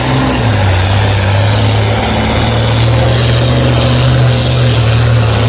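Pulling tractor's engine running loud and steady, a low drone with a noisy roar of exhaust over it.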